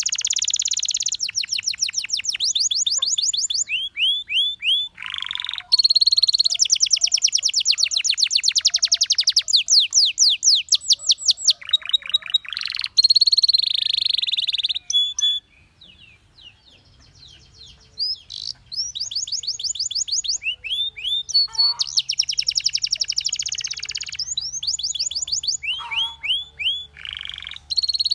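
Canary singing: long, fast trills of rapidly repeated high notes, broken by short pauses. The song drops away for about two seconds past the middle, then starts again.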